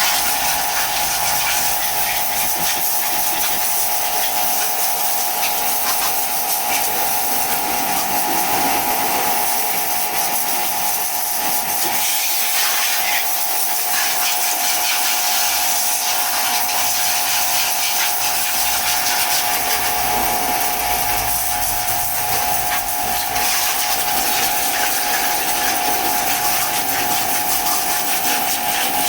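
Steady hiss of water spraying, with a constant mid-pitched whine underneath.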